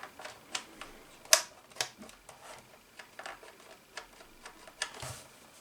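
Plastic LED spotlight being handled: a dozen or so light, irregular clicks and taps, the loudest about a second and a half in.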